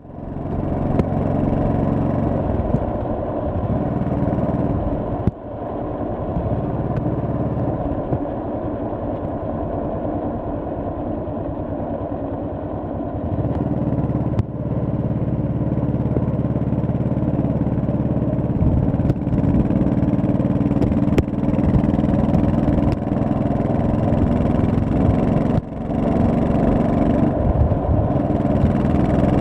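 An 1100cc V-twin motorcycle engine running steadily while riding. The engine gets louder about thirteen seconds in, and its sound drops briefly about five seconds in and again near the end.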